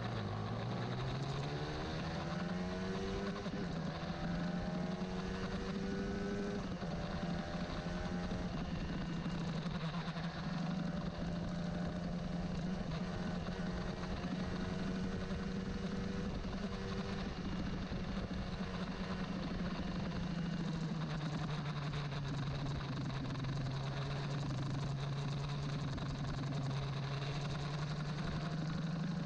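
Honda CBR150R's single-cylinder four-stroke engine running on a carburettor-tuning test. The revs climb over the first few seconds, hold steady with repeated short rises in pitch, then settle to a lower, steady speed about 21 seconds in.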